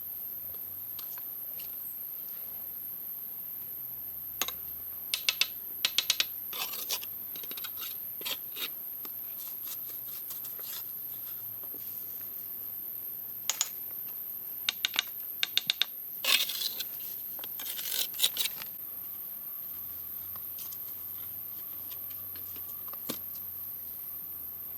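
Clusters of sharp clicks and short scrapes, like hard small objects knocking and rubbing together, in bursts about a quarter of the way in and again around two-thirds of the way through, where a longer scrape is the loudest sound.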